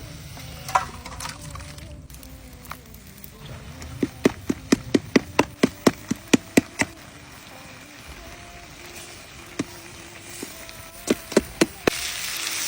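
Knife chopping on a cutting board in quick, even strokes, about five a second, in two runs. A steady hiss like oil frying starts near the end.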